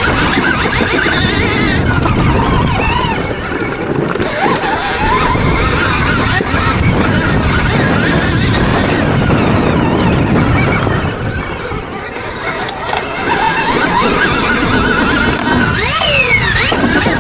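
Electric motocross bike's motor whining, its pitch rising and falling again and again as it accelerates and slows, over a steady rumbling noise, with a sharp falling whine near the end.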